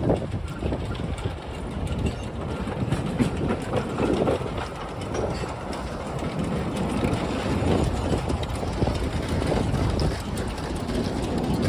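Narrow-gauge steam train running along the track, a steady rumble of wheels on the rails.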